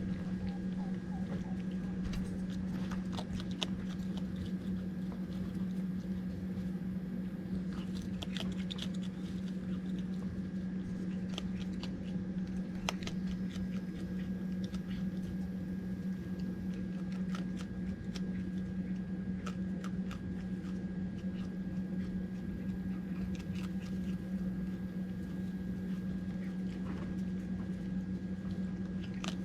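Raccoon eating dry dog food: scattered small crunches and clicks over a steady low hum.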